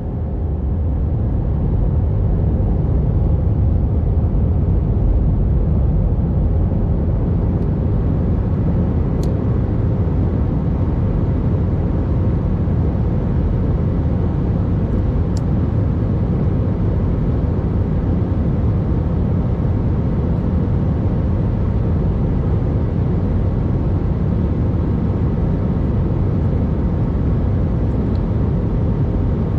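Airbus A319 airliner in flight on its landing approach: a steady low rumble of jet engines and rushing air, with a couple of faint clicks.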